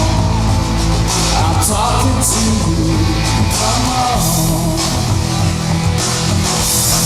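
Live rock band music with electric guitar and drum kit, loud and steady, with some singing.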